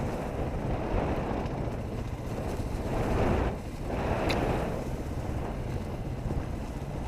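Wind buffeting the microphone while riding a dirt bike, with the bike running underneath. The noise dips briefly about halfway through, and a single sharp click follows just after.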